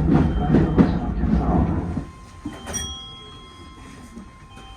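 Keisei 3000 series electric train rolling to a stop. The running rumble dies away about two seconds in, leaving a quiet background with a click and faint steady tones.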